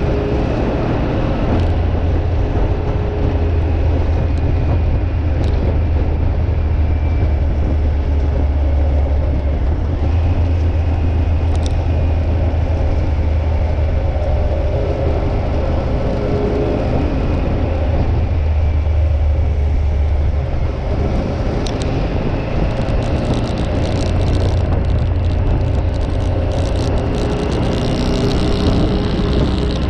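Motorcycle running at a steady cruising speed, its engine a constant low drone under road and wind noise. From about two-thirds of the way through, a patter of short crackles and ticks rides on top.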